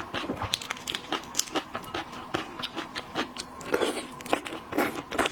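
A person eating seafood close to the microphone: irregular sharp crunches and clicks of biting and chewing, several a second.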